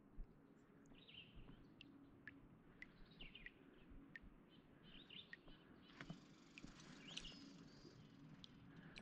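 Near silence: faint bird chirps every second or two over quiet outdoor ambience, with a few faint clicks.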